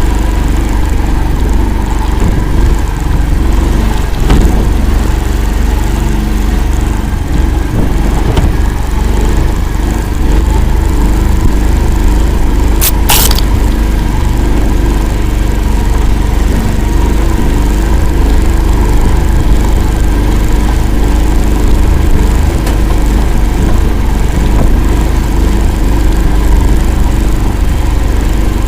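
Engine of an Akula all-terrain vehicle running loud and steady as it drives through a bog. A brief double knock cuts through a little under halfway through.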